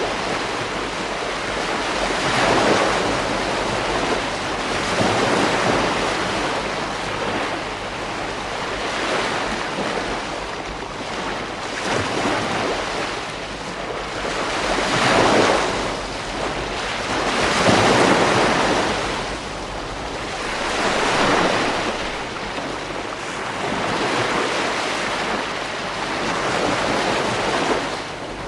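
Ocean surf breaking on a beach: a continuous wash of water noise that swells and falls back every few seconds as each wave comes in.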